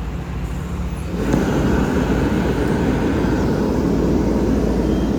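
Fire apparatus diesel engine running with a steady low hum. About a second in, a louder rushing noise joins it and holds.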